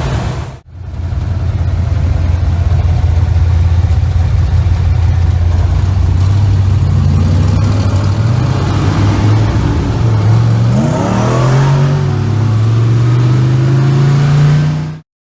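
Twin-turbo big-block Chevrolet V8 running steadily under way, then accelerating with its pitch climbing from about two-thirds of the way through. The sound cuts off abruptly near the end.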